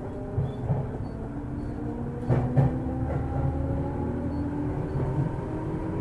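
Running sound of a 205-series electric multiple unit heard inside a motor car: the whine of its externally ventilated traction motors drifts slowly in pitch over a steady wheel-on-rail rumble. A couple of sharp knocks come about two and a half seconds in.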